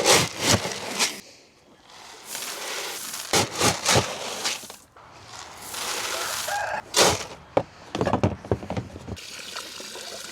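Dry poultry feed being scooped and poured into a feeder: several pours, each a second or two of rushing noise, with knocks and scrapes in between.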